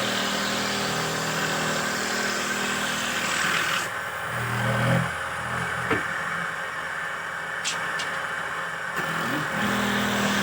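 Motor of a simple handmade wooden dowel machine running with a steady hum. It changes and goes quieter for a few seconds in the middle, then settles back to its steady running sound.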